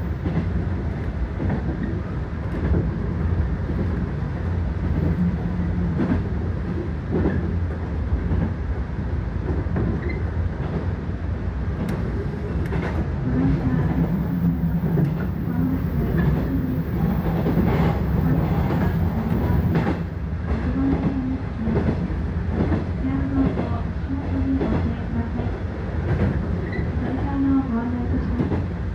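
Freight train running on the line: a steady low rumble with repeated clicks of wheels over the rails.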